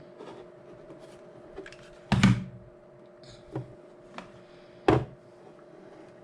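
Parts and tools being handled on a workbench: scattered light clicks, a louder knock about two seconds in and a sharp click near five seconds, over a faint steady hum.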